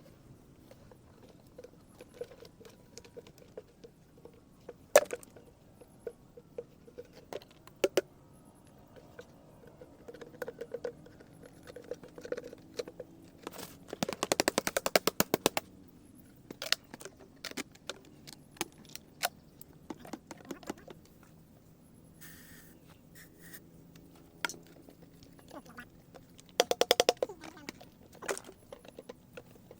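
Dried bottle gourds being struck and broken open by hand, giving scattered sharp knocks and scrapes, with two bursts of rapid rattling about halfway through and near the end as the hard shells crack and the seeds shift.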